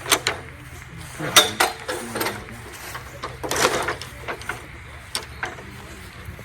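A low, steady engine hum, with several sharp knocks and a longer noisy rush about three and a half seconds in.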